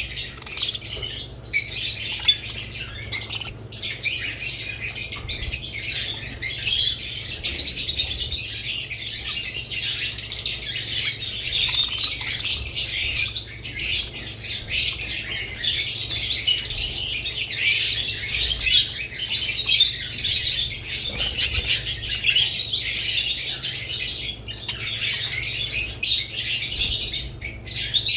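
Budgerigars and lovebirds chirping and chattering continuously, many high calls overlapping.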